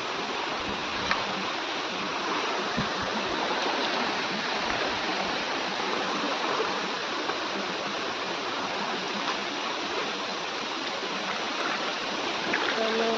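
Waterfall and its stream rushing in a steady, unbroken noise of falling and flowing water.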